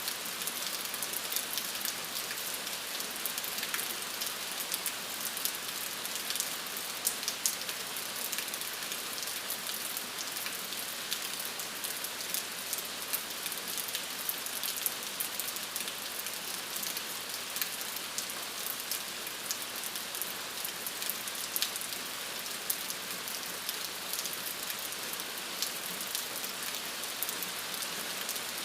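Steady rain falling, with the patter of individual drops striking a surface.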